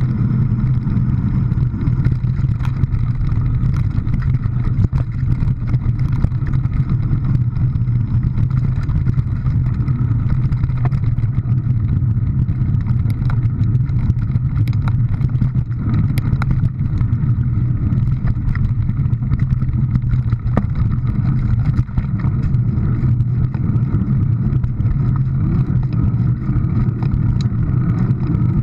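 Steady, continuous vehicle engine and road noise from a drive, with no pauses or marked changes in speed.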